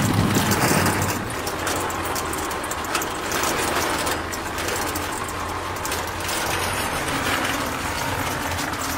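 Gears of a miniature model concrete mixer clicking and rattling steadily as its hand crank is turned to tilt the drum.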